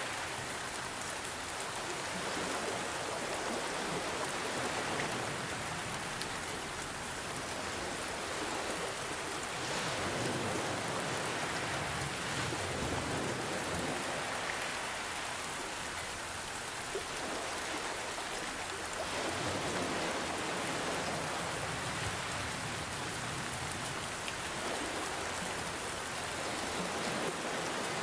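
Steady rain falling, mixed with ocean waves that swell and fall back every few seconds beneath it.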